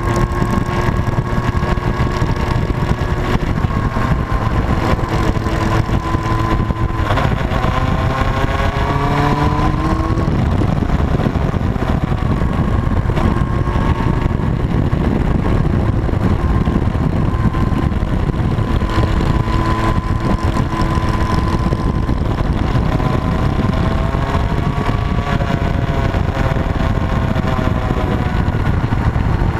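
Motorcycle engine running at road speed under a heavy rush of wind and road noise, its pitch holding steady and then climbing as the throttle opens, about a quarter of the way in and again near the end.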